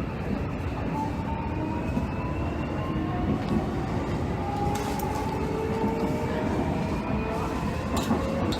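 Hanshin 5700 series 'Jet Car' commuter train heard from inside the car while running. Its motor whine rises slowly in pitch as the train picks up speed, over steady wheel and rail rumble, with a couple of short clicks.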